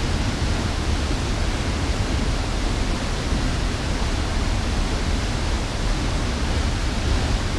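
Large waterfall with a heavy flow pouring into its plunge pool: a steady, loud rush of falling water with a deep rumble underneath and thick spray.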